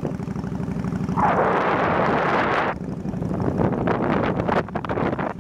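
Wind buffeting the microphone on a moving motorbike, over the steady low rumble of its engine. About a second in, a louder rush of wind noise lasts for a second and a half, then the buffeting goes on in gusts.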